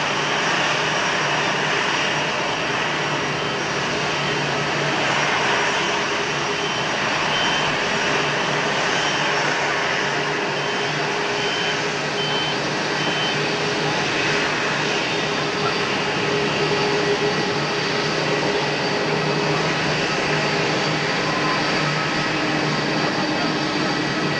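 Jet engines of a Boeing 787-8 airliner running steadily: an even rushing noise with a few faint, steady whining tones.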